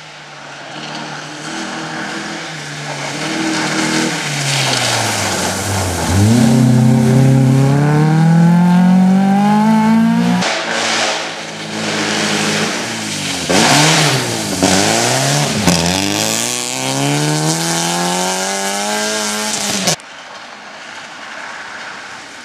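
Rally car engine revving hard as the car accelerates along the stage: the pitch climbs steadily, drops sharply at a gear change about ten seconds in, then rises and falls several times with quick lifts and gear changes before climbing again. The engine sound cuts off abruptly near the end.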